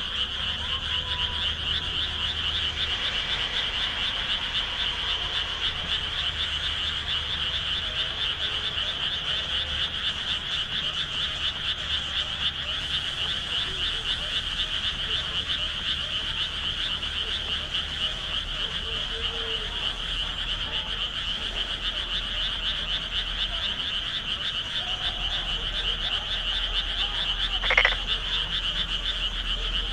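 A dense chorus of many rice-paddy frogs calling together, a continuous rapid trilling din that never lets up. A single short, sharp sound cuts through about 28 seconds in.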